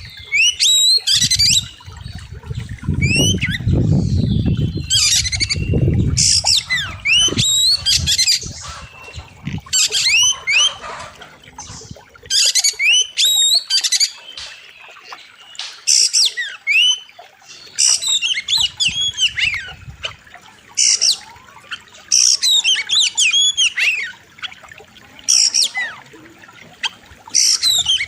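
Oriental magpie-robin (kacer) singing loud, sharp phrases of quick rising and falling whistled notes, one burst every second or two, in a full-voiced 'gacor' song packed with mimicked fill-in phrases. A low rushing noise runs beneath the song for a few seconds about two seconds in, and again briefly later.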